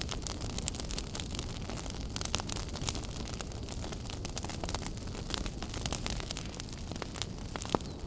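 Wood fire crackling in a fireplace: frequent sharp pops and snaps over a steady low rush of burning, with a louder pop near the end.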